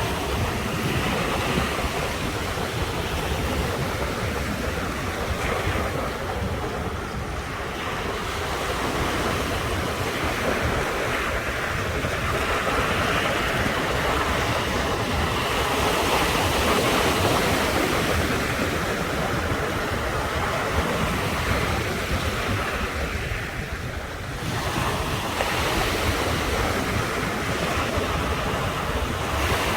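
Sea waves washing and breaking on the shore in a continuous surge that swells and eases, softening briefly about a quarter of the way in and again near the end.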